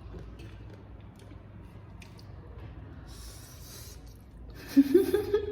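Eating pani puri close to the microphone: a short crunchy, slurpy mouth sound about three seconds in, then near the end a louder voiced sound from the eater, rising in pitch.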